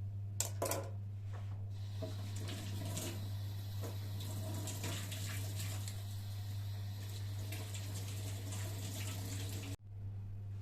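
Tap water running into a kitchen sink, a steady splashing rush that stops abruptly near the end, with a few knocks at the start and a steady low hum underneath.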